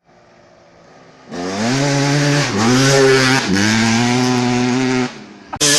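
Dirt bike engine running hard at a steady high pitch. It starts about a second in, dips briefly twice and cuts off near the end.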